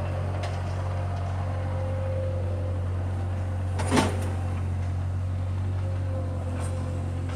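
Skid-steer loader engine running steadily, with a single sharp clank about four seconds in.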